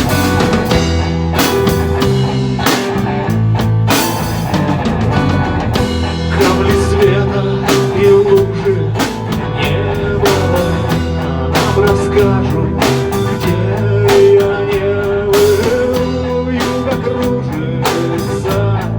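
Band music with no vocals: a drum kit keeps a regular beat under guitar, while a lead line holds long notes with small bends in pitch.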